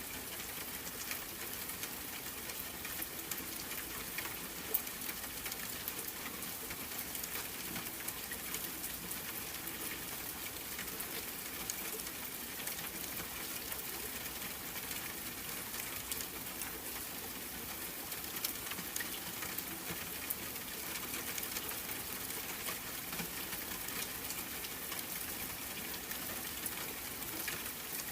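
Steady rain falling, an even hiss scattered with fine drop ticks.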